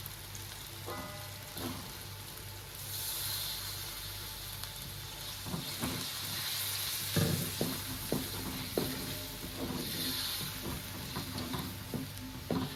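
Curry paste frying in oil in a pan, sizzling with a steady hiss that gets louder about three seconds in, after a little water has gone in. From midway a spatula stirs it, with short scrapes and knocks against the pan.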